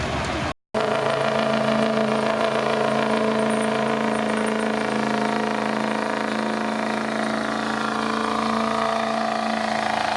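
Ford Power Stroke diesel pickup's engine held at high, steady revs under load while pulling the sled. The sound breaks off for a split second under a second in, and the engine pitch shifts slightly near the end.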